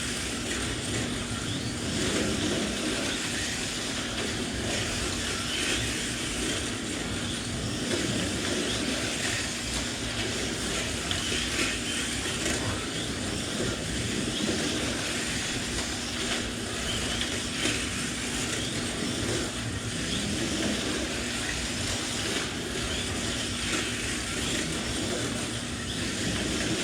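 1/32 scale slot.it Group C slot cars racing round the track, their small electric motors giving a continuous whir that swells and fades as the cars lap, with a faint steady hum underneath.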